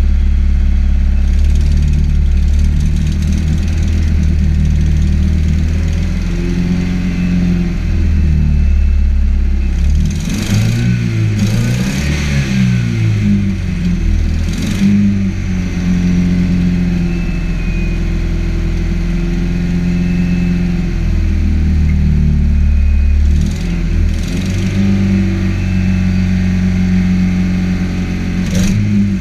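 Nissan CA18DET turbocharged 1.8-litre four-cylinder idling on a cold start. The idle speed rises and falls several times and wavers for a few seconds near the middle. A few short sharp noises sound over it near the middle and near the end.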